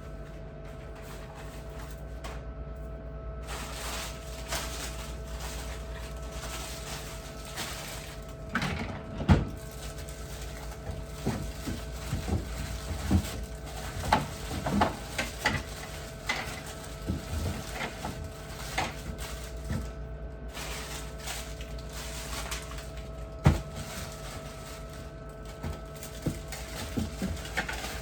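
Scattered knocks, clicks and clatter of objects being handled and set down, the loudest two sharp knocks about nine seconds in and near the end, over a steady electrical hum.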